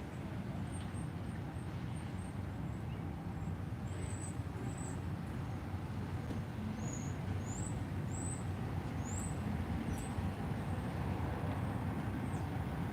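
Steady low rumble of a car engine running, with a bird chirping repeatedly in short, high, rising notes over it, most of them in the middle of the stretch.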